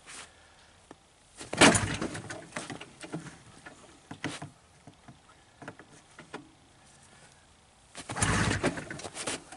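Two pulls on the recoil starter rope of a Ski-Doo snowmobile's Rotax 583 two-stroke twin: a short pull about a second and a half in, and a longer one near the end with quick, even cranking pulses. The engine does not catch, which the owner takes for a cold start failing on a flooded engine with fouled plugs.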